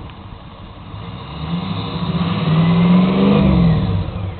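A 2005 Ford F350's 6.0L Power Stroke turbo-diesel V8 through a 5-inch turbo-back Diamond Eye exhaust with a 6-inch chrome tip, revved once from idle: it rises about a second and a half in, holds near its peak, then falls back to idle near the end.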